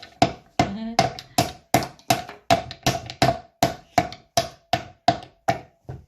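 Wooden toy hammer striking the wooden pieces of a Melissa & Doug toy toolkit again and again, about three knocks a second, each with a short hollow ring, stopping just before the end.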